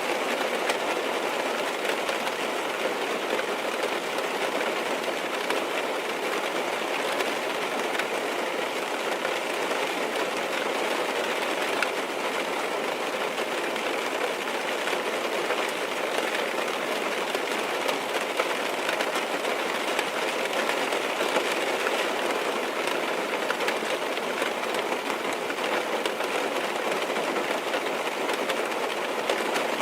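Rain tapping on a car's windows and roof, heard from inside the car: a steady, dense hiss of many small drop impacts that holds at one level.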